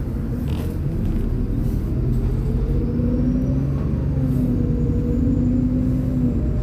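MAZ-203 city bus's diesel engine running as the bus drives, heard from inside the cabin. The engine note climbs and shifts over the first few seconds as the bus picks up speed, with a faint high whine rising alongside.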